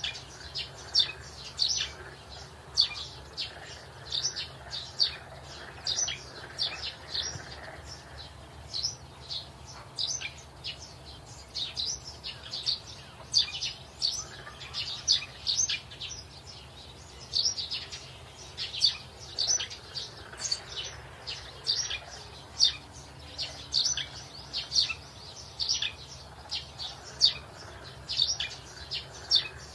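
A bird chirping over and over: short, high chirps, several a second, often in quick pairs or runs.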